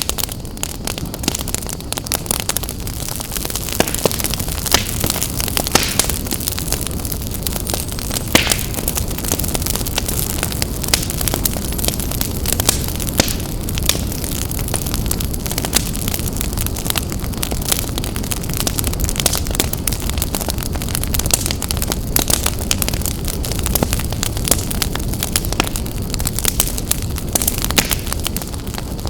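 Wood fire burning in a fireplace: steady low rumble and hiss of the flames with frequent sharp crackles and pops from the burning logs.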